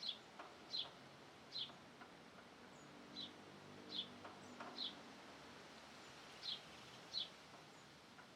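A bird calling with short, high chirps, about eight of them spaced irregularly with pauses between.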